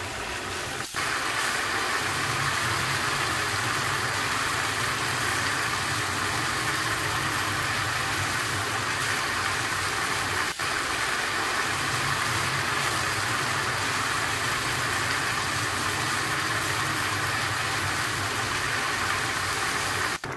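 Ground beef, onions, peppers and kidney beans sizzling steadily as they sauté in a frying pan, over a steady low hum.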